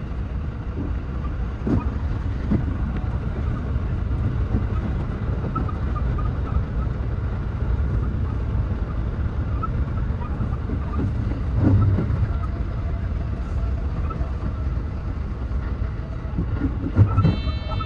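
Running noise of a JR West 223 series 2000-subseries electric train heard from the driver's cab: a steady low rumble of wheels on rail, with a few knocks as it passes over rail joints and points.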